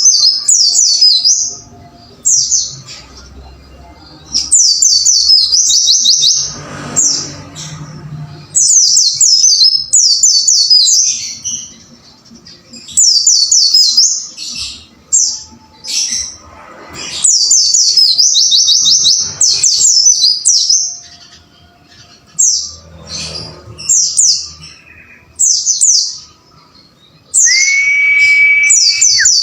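White-eye (pleci) song: quick phrases of high, rapid chirping notes, each a second or two long, with short pauses between. Near the end a steady, even-pitched whistle joins in for about two seconds.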